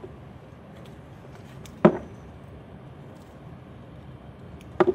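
Two short, sharp knocks about three seconds apart from harvesting aronia (chokeberry) clusters with a cutter into a plastic bucket, over faint steady outdoor background noise.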